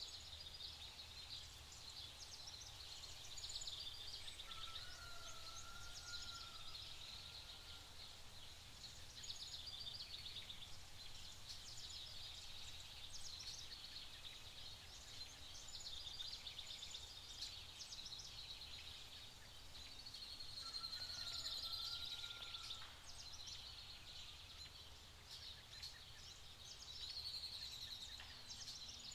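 Faint background of birds chirping and twittering, with a short warbling whistled call twice, about five seconds in and again about twenty-one seconds in, over a steady low hum.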